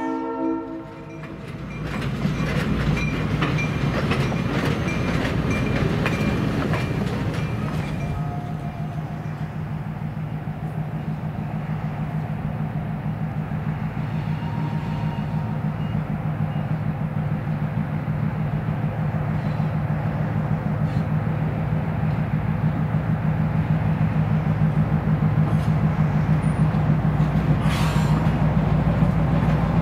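Train wheels clicking over rail joints as a passenger train crosses a bridge. About eight seconds in, a diesel locomotive approaches, its engine drone growing steadily louder.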